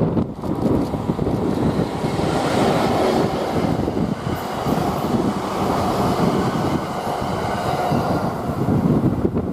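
A delivery train of E235-series commuter cars hauled by an electric locomotive rolls past, with a steady rumble of wheels on rail and a faint high ringing tone in the middle. Strong wind buffets the microphone at the start and again near the end.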